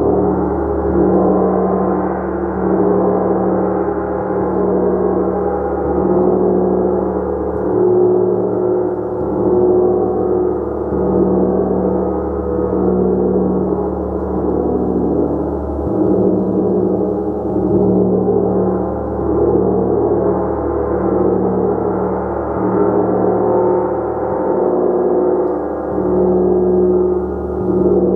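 A gong played continuously in a sustained wash, its many tones humming together with slow swells in loudness. A strong low hum sits beneath a dense shimmer of higher overtones, with no single loud strike standing out.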